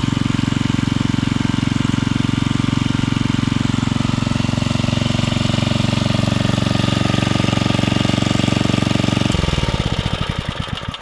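Early-1970s Briggs and Stratton 4 hp single-cylinder engine running steadily. Near the end it is shut off: the firing slows into separate beats and the engine coasts to a stop.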